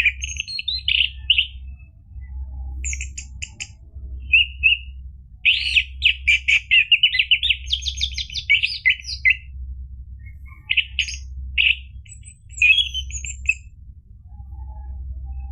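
Orange-headed thrush singing: phrases of quick, rapidly repeated chattering notes, broken by short pauses, over a low steady hum.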